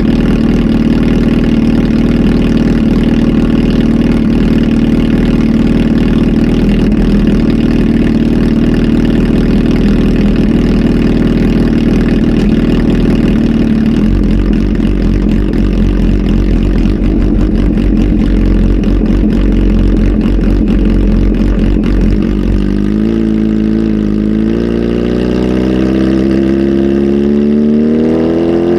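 Kawasaki Z H2 SE's supercharged inline-four running through a full aftermarket exhaust with a flash tune: idling steadily, turning rougher and more uneven about halfway through, then revs climbing slowly and smoothly over the last several seconds.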